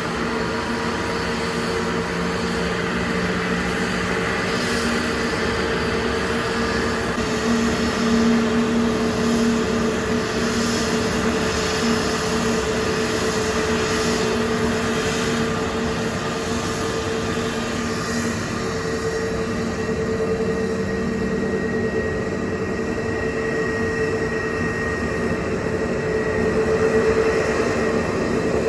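Airbus A320neo's CFM LEAP-1A turbofan engines running at a steady power, a steady hum with held tones over a rushing noise.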